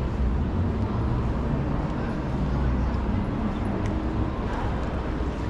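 City street ambience: a steady rumble of traffic, with a few faint clicks over it.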